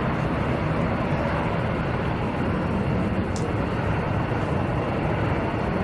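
Military aircraft engine noise: a steady, even rushing that does not rise or fall.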